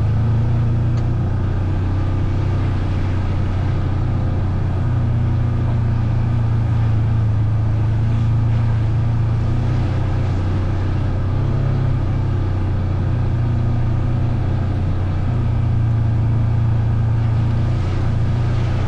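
A vehicle's engine running steadily while riding, a continuous low drone whose pitch shifts a little now and then.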